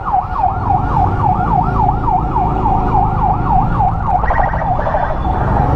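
Electronic emergency siren in a fast yelp, its pitch rising and falling about four times a second, changing to a different pattern about four seconds in. A steady low engine and road rumble runs underneath.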